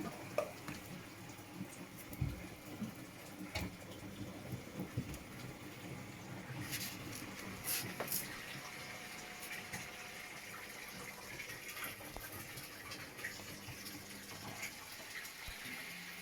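Washing machine running with water sloshing and splashing inside it, with scattered knocks and clicks.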